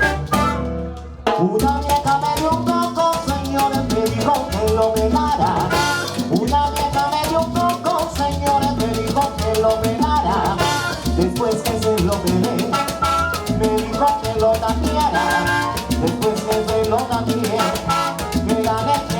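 Salsa band playing live, with trombones, piano, bass, timbales and congas. The band drops out briefly about a second in, then comes back in at full strength.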